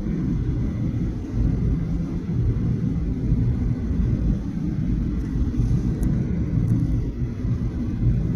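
Steady low rumble of a Boeing 737-800 as heard inside the passenger cabin.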